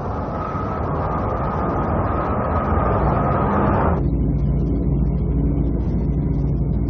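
Sound effect of a spaceship's engines in an animated space battle: a rumble that cuts off abruptly about four seconds in, giving way to a lower steady hum.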